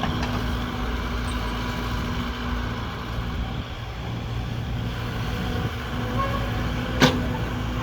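An engine running steadily with a low rumble and a steady hum, and one sharp click near the end.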